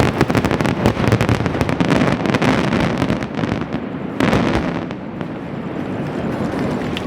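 Fireworks going off in a dense, rapid volley of bangs and crackle, with a second flurry about four seconds in, then fading into a rolling rumble of echoing booms. This is the Onigajo grand set piece, fired at the sea cliffs.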